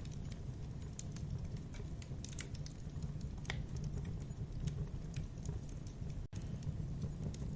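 Campfire burning: wood crackling with irregular sharp pops over a steady low rumble of the flames. The sound cuts out for a split second about six seconds in.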